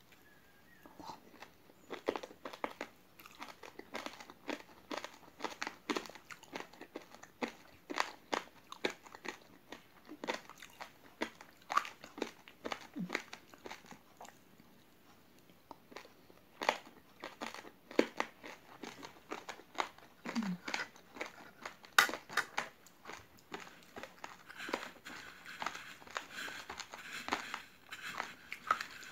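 Raw uncooked rice grains crunching between the teeth as chewy jelly coated in them is bitten and chewed: a run of irregular sharp crunches, thinning out briefly about halfway. Near the end comes a gritty rustle of loose raw rice as a skewer is rolled through it.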